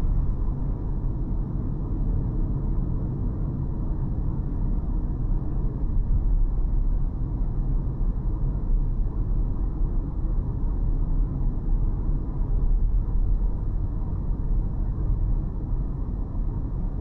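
Steady low rumble of a car being driven: road and engine noise, even throughout.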